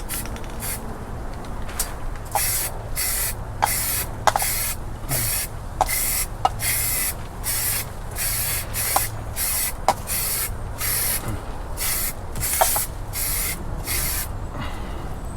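Rust-Oleum primer aerosol can spraying in short hissing bursts, about one or two a second, as primer is laid on, stopping shortly before the end.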